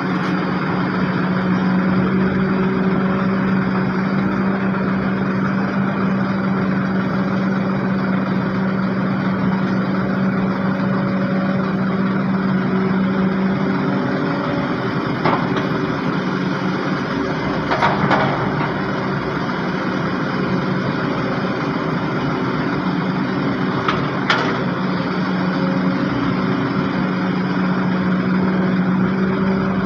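Heavy diesel engine running steadily at a constant speed, with a few short knocks midway through.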